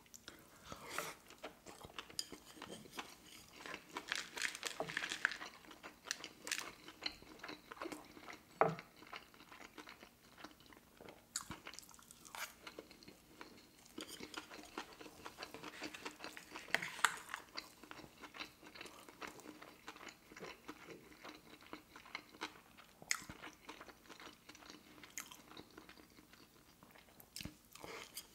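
Close-miked chewing of a mouthful of sushi roll: a steady run of small wet mouth clicks and crunches, with a few louder crunches about a third and halfway through.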